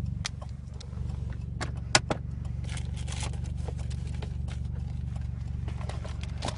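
Car engine idling, heard from inside the cabin as a steady low hum, with scattered clicks and knocks of handling; a sharp click about two seconds in is the loudest.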